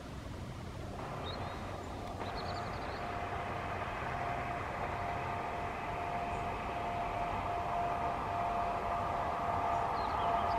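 Merseyrail Class 507 electric multiple unit approaching, its running noise growing steadily louder, with a steady whine coming in about two seconds in and strengthening as it nears. Birds chirp briefly about a second in and again near the end.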